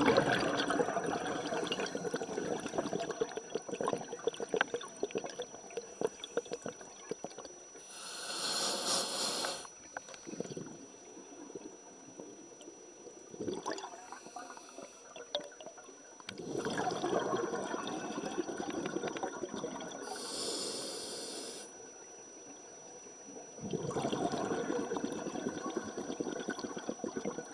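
Underwater bubbling and water noise, with two short hissing bursts about eight and twenty seconds in.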